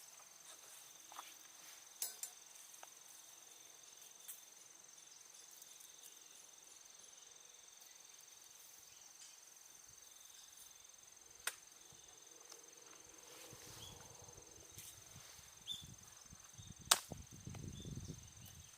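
Quiet outdoor ambience: a steady high insect trill with scattered small clicks and knocks. Near the end there is a low rumble and one sharp knock.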